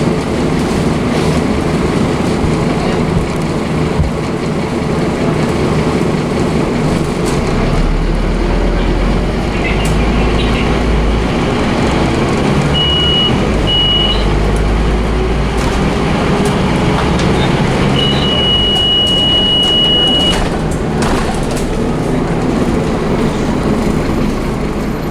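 Scania DC9 five-cylinder diesel engine of a Scania OmniCity double-decker bus running hard under load, with its ZF automatic gearbox. A high beeping tone sounds twice briefly about halfway through, then once for about two seconds.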